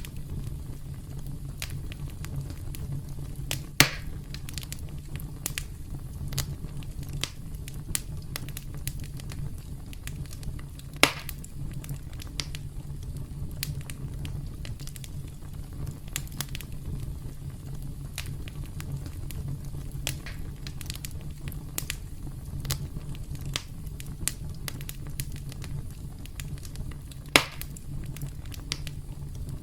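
Campfire crackling: a steady low rumble of burning with frequent sharp pops and snaps of the wood, three of them much louder than the rest.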